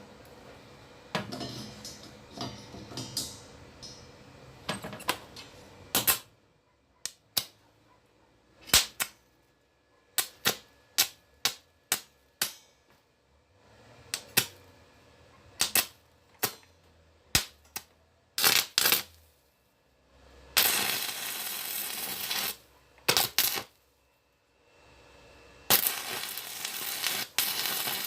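Stick welding with a 3/32-inch electrode at 45 amps: a string of short, sharp arc strikes and tacks, then two longer runs of steady arc crackle of about two seconds each, the second near the end.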